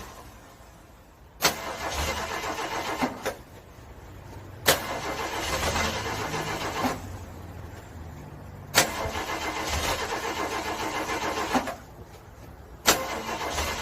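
A car's starter cranking a cold engine in four separate attempts, each beginning with a sharp click and running for about two to three seconds of rhythmic churning. The engine stops after each attempt without starting.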